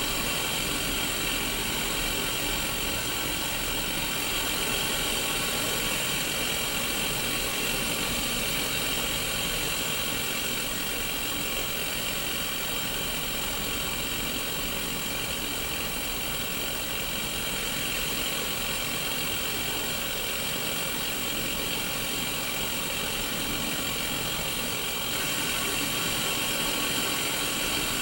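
Steady hiss of analog TV static (white noise) from a Sony Mega Watchman black-and-white mini CRT television's speaker. It gets a little louder for the last few seconds.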